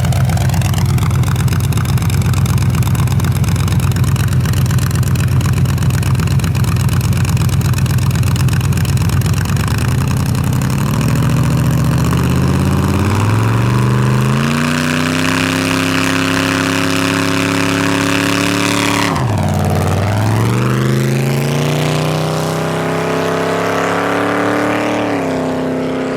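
Race truck's engine running hard. It holds a steady, heavy note for about ten seconds, then the revs climb, drop sharply and recover about nineteen seconds in like a gear change, and climb again.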